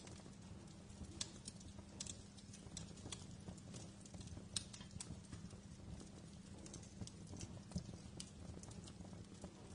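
Wood fire crackling: irregular sharp pops and snaps, the loudest about halfway through, over a low steady rumble.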